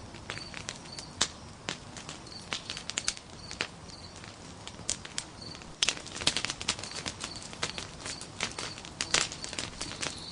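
Nodya log campfire crackling with irregular sharp pops, busier in the second half. A faint high chirp repeats in the first half.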